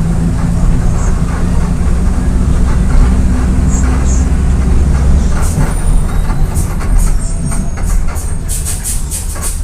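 Volksbus 17.230 EOD bus engine running with a steady low drone that eases off and changes about five and a half seconds in. A quick run of clicks and rattles comes near the end.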